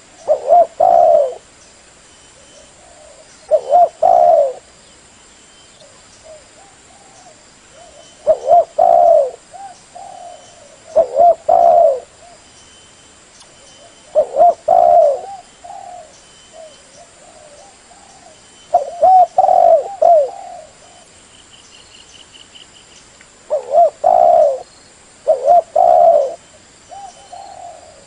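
Spotted dove (terkukur) cooing: short phrases of two or three low coo notes, repeated every three to five seconds.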